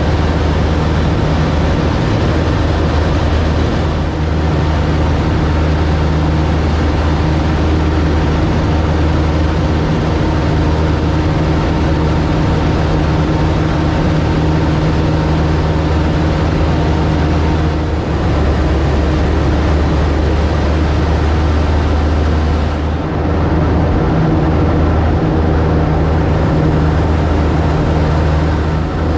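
Piston engine and propeller of a Cub light aircraft droning steadily in cruise flight, heard loud from inside the cockpit, with a strong low hum and brief slight dips in level a few times.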